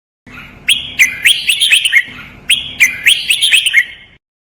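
Red-whiskered bulbul singing two near-identical phrases of quick, clear whistled notes back to back, a doubled song recorded as a master song for training caged bulbuls.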